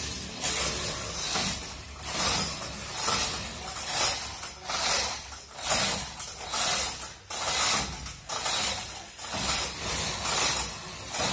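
A ratcheting mechanism being worked by hand, rasping in repeated strokes at about one a second, as when cargo is strapped or hoisted onto a truck.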